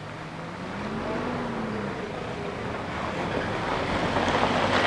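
Approaching diesel regional train: its engine hum shifts in pitch while the rumble of the train grows steadily louder, loudest near the end.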